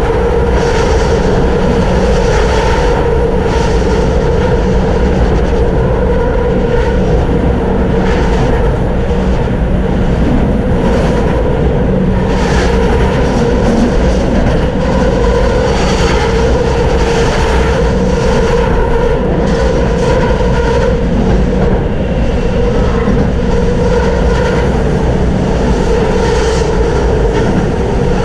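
Tram running along the track at steady speed: continuous rumble and rail noise with a steady hum.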